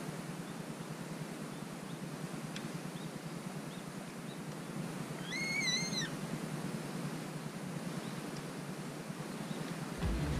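Steady outdoor background hiss with a single bird call about halfway through, one arched whistled note lasting under a second. Music comes in right at the end.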